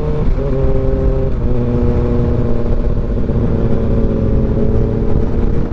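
Motorcycle engine running at highway cruising speed, its note stepping in pitch twice in the first second and a half and then holding steady, with wind rumbling on the helmet-mounted microphone in gusty dust-storm wind.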